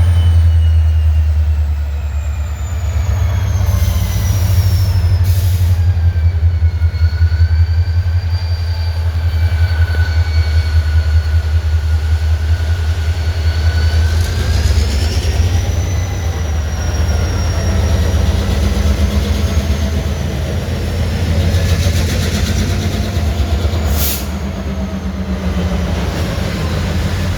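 Train rolling along the tracks: a steady low rumble with steel wheels squealing on the rails, the squeal wavering up and down in pitch. A sharp click near the end.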